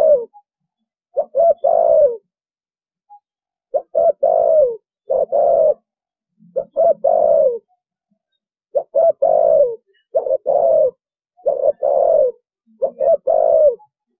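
Spotted dove cooing in repeated phrases, each a few short notes followed by two longer coos that fall in pitch at the end, with short pauses between phrases. The calls are of the 'thổ bầu' type prized by Vietnamese dove keepers.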